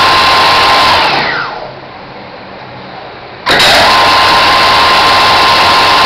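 Scania alternator spinning with a loud steady whine and rushing noise, which winds down with a falling whine about a second in, then abruptly comes back at full level about two and a half seconds later.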